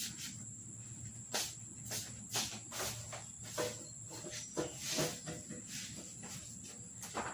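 A steady, high-pitched insect chirring, like crickets, runs underneath scattered short clicks and knocks that come at irregular intervals.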